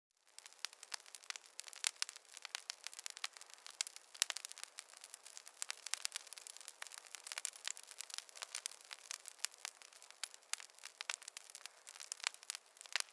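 Campfire crackling: a dense, irregular stream of sharp pops and snaps over a soft hiss, cutting in abruptly after a moment of silence.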